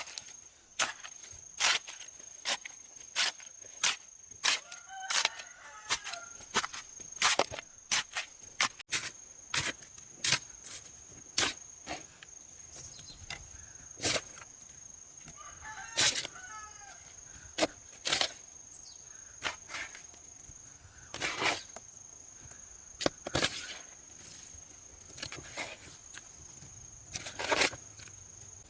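A long run of sharp knocks or taps, irregular but roughly one a second, over a steady high-pitched tone. A chicken calls faintly now and then, about five seconds in and again near the middle.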